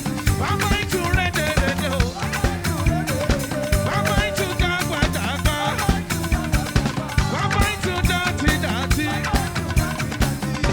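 Live band playing an upbeat African gospel groove, with a drum kit keeping a steady fast beat under melodic instrument lines and no clear singing.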